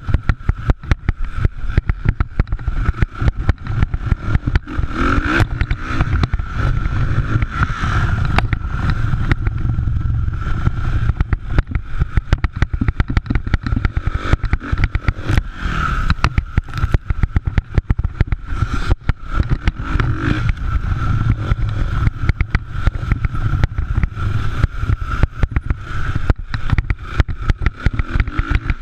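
Motocross motorcycle engines running, a steady engine note heard through rough, choppy noise on the microphone.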